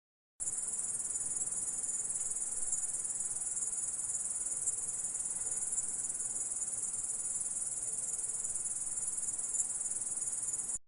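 Grasshopper stridulating: one unbroken, high-pitched buzzing trill that starts suddenly about half a second in and cuts off abruptly near the end.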